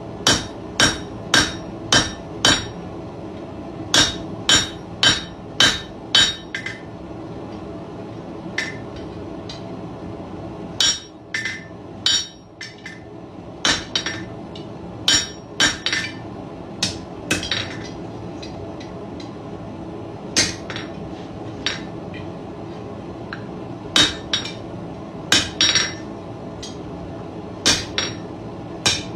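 Hand hammer striking hot iron on the edge of an anvil, flattening the lip of the nose. The blows ring sharply and come in runs of about four to six quick strikes with short pauses between, over a steady hum.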